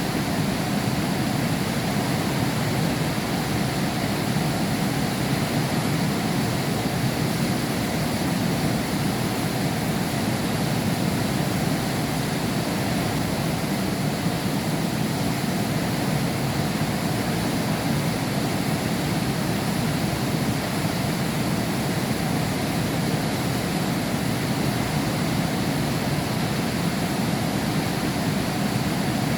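Heavy rain falling steadily: a dense, even rushing with nothing standing out from it.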